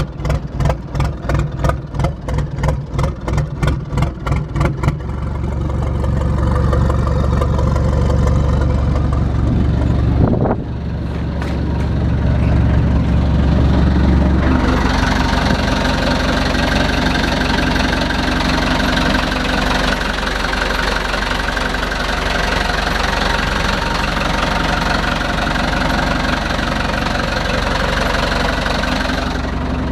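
The inboard engine of a Yanmar FX26Z boat starting. It turns over in even pulses, about four a second, then catches at about five seconds and runs steadily. About ten seconds in the note shifts, and from about fifteen seconds it runs on with a brighter, fuller sound.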